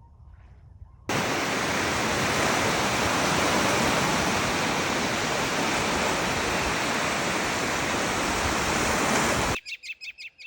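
Loud, steady rushing noise like running water or wind, which starts and stops abruptly. Near the end it gives way to a bird's quick, repeated chirps.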